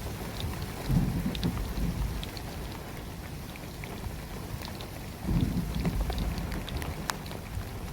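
Heavy rain falling, with scattered sharp drop ticks over a steady patter. There are two low rumbles, one about a second in and one about five seconds in.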